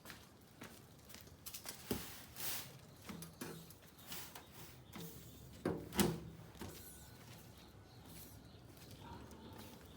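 Irregular knocks, clunks and scraping sounds, as of objects or materials being handled, with the loudest cluster about six seconds in.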